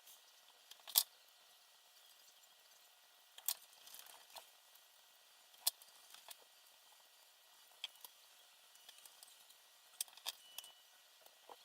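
Scattered small clicks and taps at uneven intervals, typical of small parts and tools being handled during hands-on assembly work.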